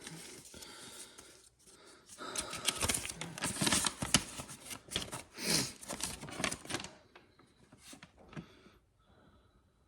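Packaging and papers being handled: rustling with sharp clicks and taps, busiest from about two to seven seconds in, then a few faint ticks.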